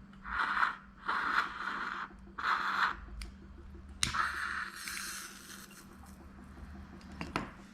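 A lighter struck again and again at a carbide acetylene lamp's burner: three short scrapes, then a sharp click about four seconds in followed by a brief hiss.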